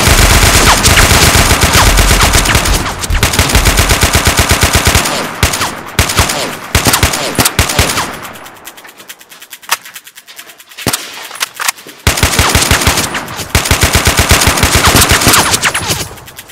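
Rapid automatic gunfire in long sustained strings. It thins to scattered single shots about halfway through, then resumes in full a few seconds later.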